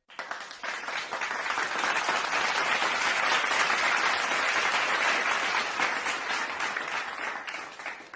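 Applause: many hands clapping together, building up over the first second, holding steady, then thinning out near the end before cutting off.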